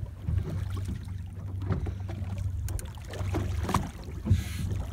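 Boat motor idling: a low, steady rumble, with a few light clicks over it and a sharper knock near the end.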